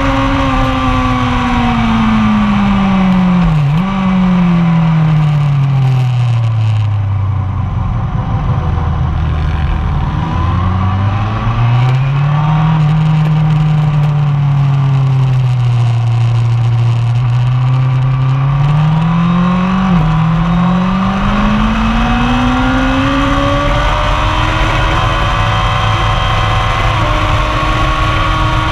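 1999 Yamaha R1's inline-four engine, ridden on track: the note falls steadily for about eight seconds as the bike slows, with a brief dip about four seconds in, then climbs and holds as it picks up speed again. Another short dip comes about two-thirds of the way through, then a further rise.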